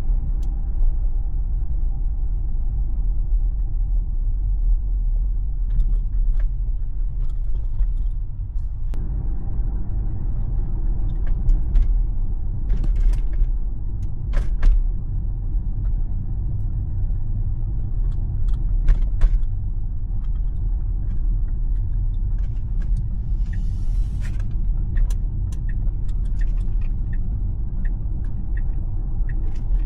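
Low road and tyre rumble inside the cabin of a Tesla electric car driving on local roads, growing fuller about nine seconds in. Scattered light clicks and a brief hiss sound over it.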